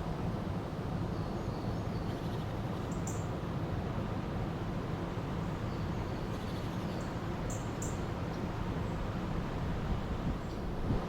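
River water rushing steadily, with a few short, high bird chirps over it.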